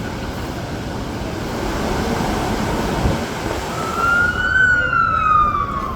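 An emergency vehicle siren wails over a steady rumble of city street noise. It comes in nearly four seconds in, rises briefly, then falls slowly in pitch.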